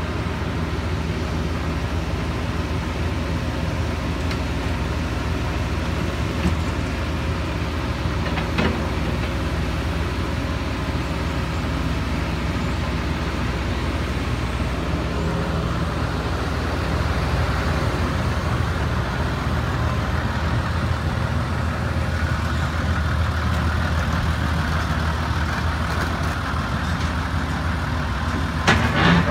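Heavy diesel machinery engine running steadily, a little louder past the middle, with a single knock about a third of the way in and a short clatter near the end.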